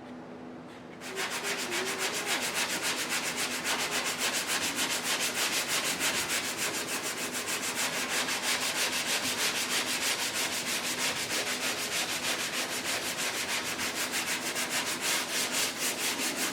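Hand sanding of body filler on a car door with a sanding block, fast even back-and-forth strokes of several a second, starting about a second in.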